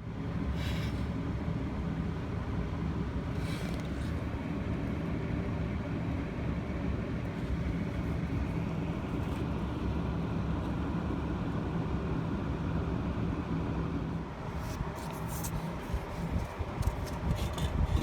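Honda Odyssey's 3.5-litre V6 running steadily with a low rumble. About fifteen seconds in, a few sharp clicks and knocks join it.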